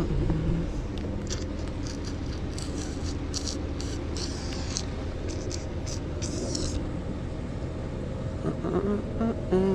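A vehicle engine idling steadily, a low even hum. Short high hissy scrapes come and go over the first several seconds, and a brief pitched sound that bends up and down comes near the end.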